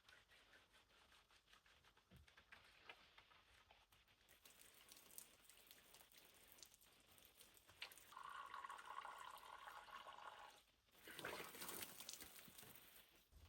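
Faint water sounds, liquid trickling and dripping, with a steadier run of flowing water from about eight seconds in and a short louder splash of noise near the end.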